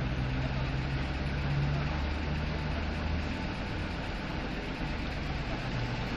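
Automatic car wash machinery running: a steady hiss over a low motor hum.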